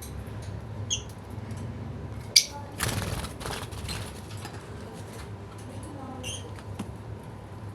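Pet bird giving two short high chirps, about a second in and again near the end. In between come a sharp click and a brief burst of rustling, over a steady low hum.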